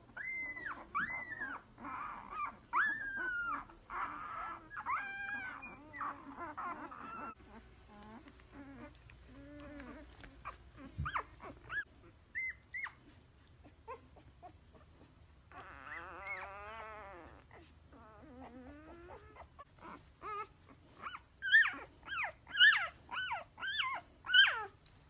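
Puppies whimpering and whining in high calls that rise and fall, then a run of loud, short yips near the end.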